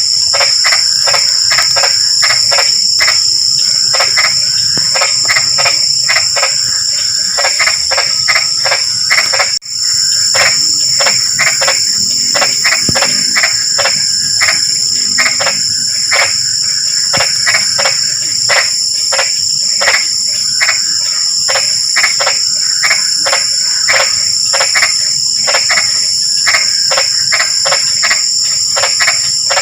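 Frogs calling in a chorus of quick repeated croaks, about three a second, over a steady high-pitched drone of crickets. The sound cuts out for a moment a little under halfway through.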